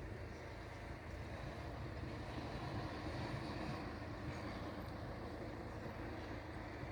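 Faint, steady low rumble with a light hiss: background ambience with no distinct event.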